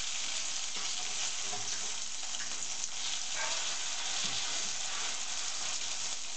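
Potato-and-chicken pancakes sizzling in oil in a frying pan, a steady hiss, with a few faint scrapes of a fork and spatula as they are turned over.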